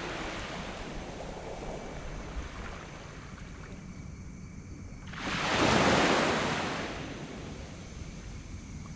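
Sea waves breaking on a sandy beach: the wash of one wave fading at the start, then a new wave breaking about five seconds in, swelling to a loud peak and fading over about two seconds.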